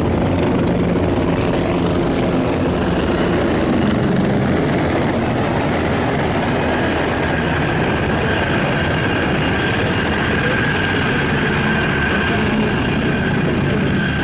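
Helicopter flying in a display, its rotor and engine noise loud and steady, with a steady high whine coming in about halfway through.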